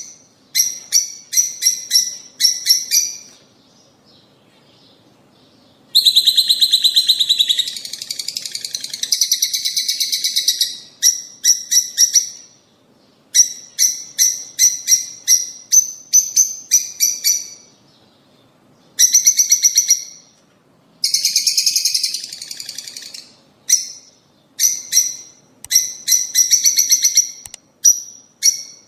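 Lovebirds calling: runs of sharp, high-pitched chirps in quick series. These are broken by a few longer stretches of dense, fast chattering and by short pauses.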